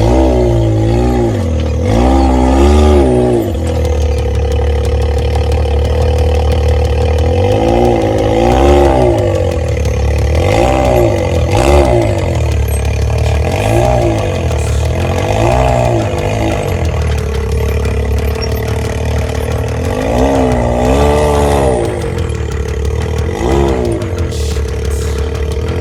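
Off-road vehicle engine revving up and falling back again and again over a steady low running drone.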